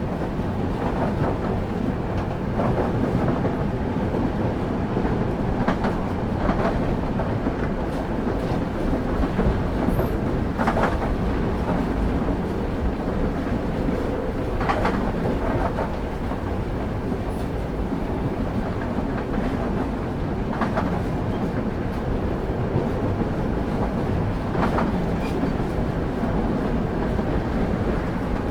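Passenger train heard from on board, running steadily: a continuous low rumble of wheels on track, broken by an occasional sharp clack as the wheels cross rail joints, a few seconds apart at uneven intervals.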